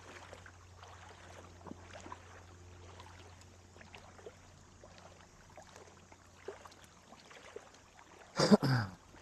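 Quiet creek ambience: faint trickling water with scattered small ticks and a low steady hum. Near the end comes a brief, loud vocal exclamation.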